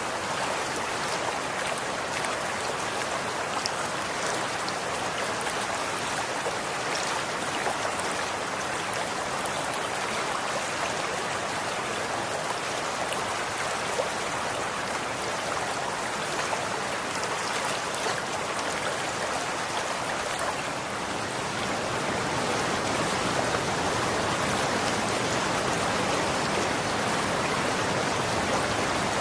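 Running water flowing steadily, a dense even rush with small droplet splashes, getting slightly louder about three quarters of the way through.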